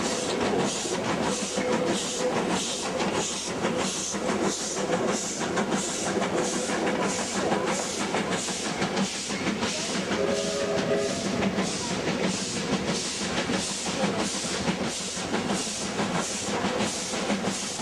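Double-headed W-class steam locomotives working hard, their exhaust chuffing in a steady rhythm of about two beats a second over a continuous steam hiss.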